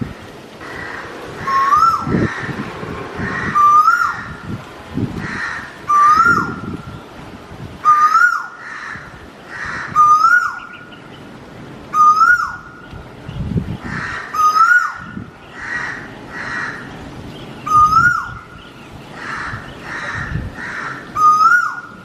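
A bird's call repeated very regularly, about every two seconds: a short note that rises and then drops sharply. Low rumbles come and go underneath.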